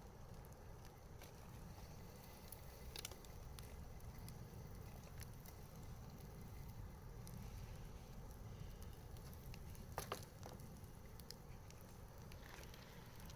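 Wood campfire crackling with scattered small pops and a louder pop about ten seconds in, over a low steady rumble.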